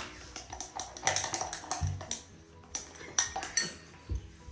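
Irregular clicks, taps and crinkles of takeout food packaging being handled at a table during a chicken nugget meal.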